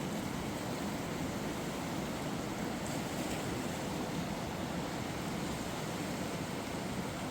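Steady rushing of a flood-swollen river, an even roar of water with no breaks.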